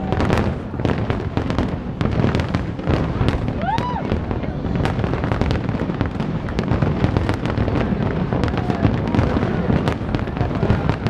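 Fireworks display: a rapid, continuous barrage of bangs and crackles over a steady low rumble. A short whistle rises and falls just before four seconds in.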